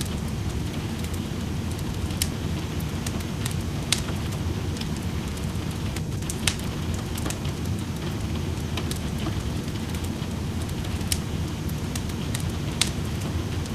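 Wood fire crackling in a fireplace, with sharp pops every second or two over the steady hiss of rain.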